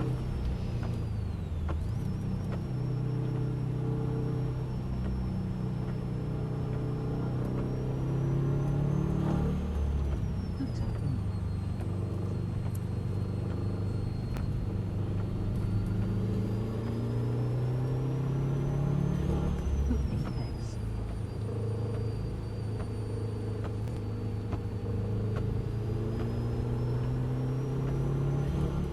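Car engine running under load through repeated acceleration: its pitch climbs for several seconds, then drops sharply about a second in, around ten seconds in, around twenty seconds in and again near the end, as the car lifts or shifts.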